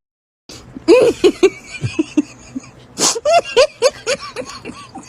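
A comic laugh sound effect: a string of short, breathy laugh bursts, each falling in pitch, starting about a second in, with a sharp breathy burst near the middle.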